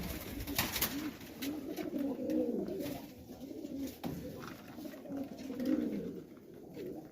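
Domestic pigeons cooing in a loft: a string of low, rolling coos that rise and fall, with a few short clicks or rustles in the first second or so.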